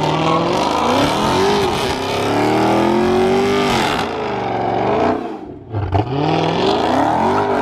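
Car engine revving hard and spinning its tyres in donuts, the pitch swinging up and down over a steady rush of tyre noise. The revs drop briefly about five and a half seconds in, then climb again.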